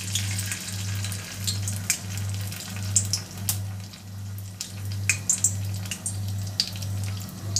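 Batter-coated lady's finger (okra) strip deep-frying in hot oil in a kadai: a steady sizzle with scattered sharp pops and crackles. A low hum pulsing about twice a second runs underneath.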